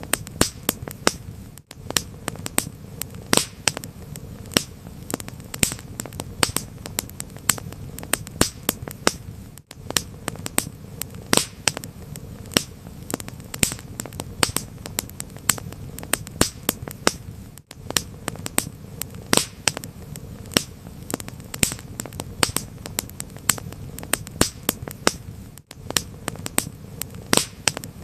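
Fire crackling in a fireplace: frequent, irregular sharp pops and snaps over a low, steady rush, with a brief dip in the sound about every eight seconds.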